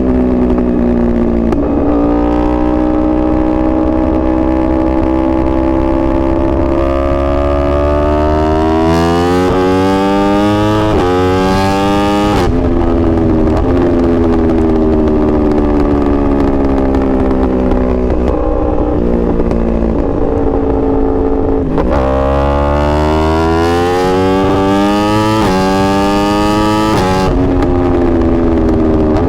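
2021 Yamaha R1's crossplane inline-four engine pulling hard at full throttle through the gears, its pitch climbing and then dropping at each upshift in two runs of quick shifts. In between, the revs fall away steadily as it rolls off, with a couple of downshifts.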